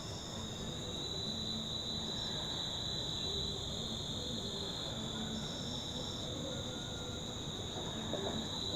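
Steady outdoor insect chorus: a continuous high-pitched trill holding two steady pitches.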